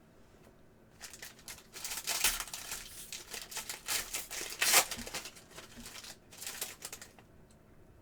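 Plastic trading card pack wrapper crinkling and tearing as a pack is ripped open, in a run of irregular crackles with the sharpest tear a little before the five-second mark.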